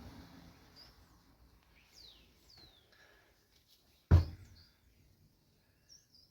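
Faint bird chirps, several short calls falling in pitch, with one sharp knock about four seconds in, the loudest sound.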